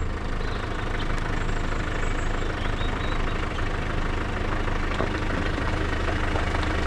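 Off-road truck's engine idling steadily with a low, even hum.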